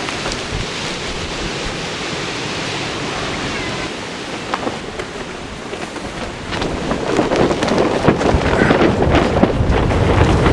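Strong wind blowing and buffeting the microphone, a steady rush that turns louder and rougher, with a low rumble and crackling, about six and a half seconds in.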